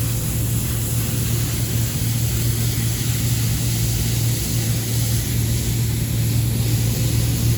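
Rooftop commercial air-conditioning unit running: a steady low hum with the even rush of its fans.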